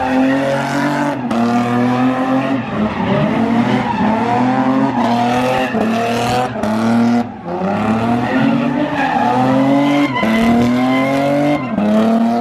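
Car engine revving hard again and again, its pitch climbing and dropping about once a second or so, with tires squealing, as in donuts or a burnout.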